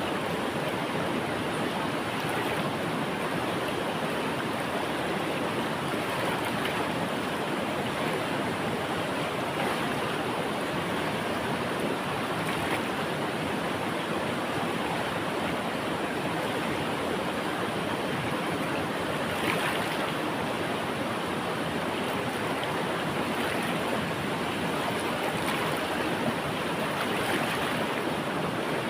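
Steady flow of a river or stream, an even rushing of water with small splashes.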